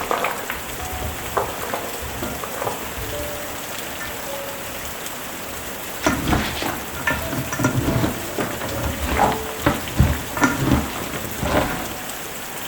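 Food frying in a pan with a steady sizzle, and from about halfway through a utensil stirring, scraping and knocking against the pan.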